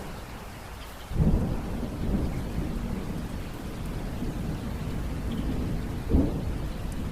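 Steady rain falling, with a rumble of thunder breaking in suddenly about a second in and rolling on, swelling again near the end.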